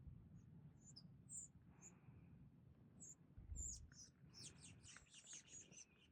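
Faint small songbird chirping: scattered short, high chirps, then a quick run of about ten notes in the second half, over a faint low rumble of wind.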